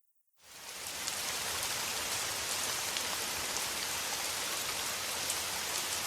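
Steady rain falling, a dense hiss with scattered drop ticks, fading in about half a second in.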